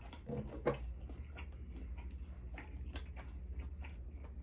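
Close-miked chewing and wet mouth smacking of food, a run of small soft clicks, with a short hummed vocal sound in the first second. A steady low hum lies underneath.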